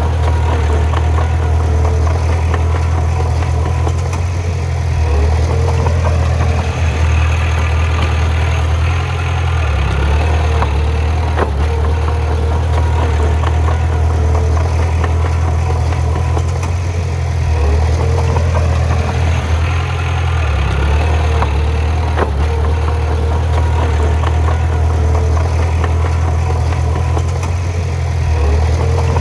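Heavy diesel engine of a bulldozer running steadily, its pitch swelling and easing now and then, with a couple of sharp metallic knocks.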